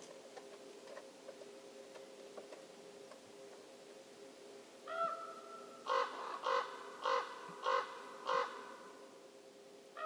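A crow-family bird calling: one drawn-out call about five seconds in, then five short harsh caws in a row, with another call starting at the very end.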